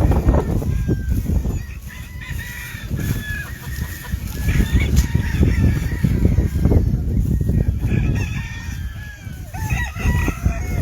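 Several gamefowl roosters crowing in turn, over a steady low rumble.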